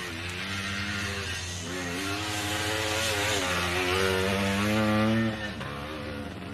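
Yamaha DT1's single-cylinder two-stroke engine revving as the bike is ridden off road. The pitch climbs steadily for a few seconds, then drops sharply as the rider backs off about five seconds in.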